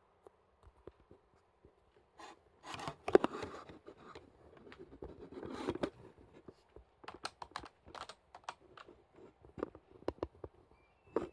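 Typing on a computer keyboard: irregular key clicks, with denser, louder runs of keystrokes about three seconds and six seconds in.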